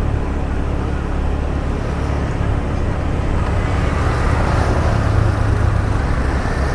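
Car engine and tyre noise heard from inside a moving car: a steady low rumble that swells a little about four to six seconds in, with road traffic around.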